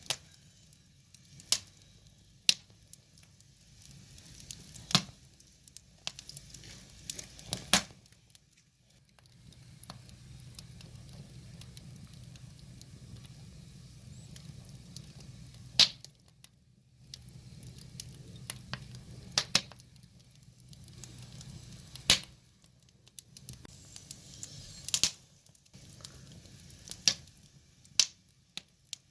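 Wood fire crackling, with sharp irregular pops and snaps of burning logs over a soft hiss. A low, steady rumble of the flames comes and goes in two long stretches.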